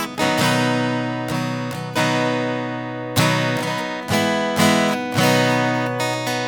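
Solo acoustic guitar strumming the closing chords of a song, about one strum a second, each chord left to ring and fade.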